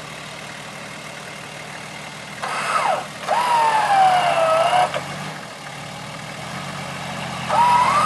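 A diesel engine idling steadily, with an electric winch whining as it hauls the vehicle over rocks. The whine comes in two spells, about two and a half seconds in and again near the end, its pitch sliding up and down with the load.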